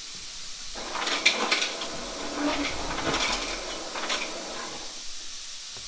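Chicken frying in hot oil: a steady sizzle that swells louder with sharp crackling pops from about a second in until about four seconds in.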